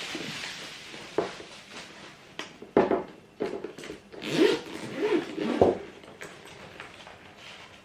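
A zipper on a fabric travel pouch being pulled open in several short strokes, with rustling and clicks from handling it.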